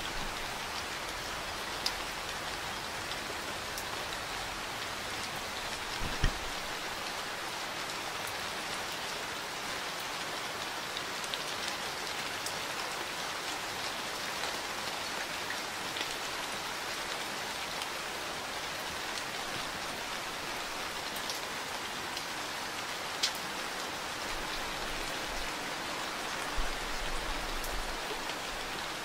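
Steady rain falling, an even hiss of drops on hard surfaces, with a few sharper single drop taps; the loudest tap is about six seconds in.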